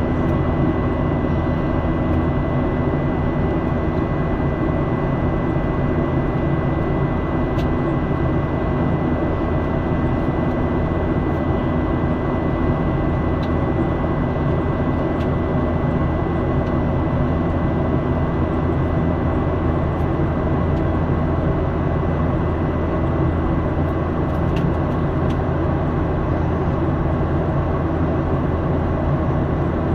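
Steady cabin noise of a jet airliner in flight: an even roar of engines and airflow with a thin steady whine.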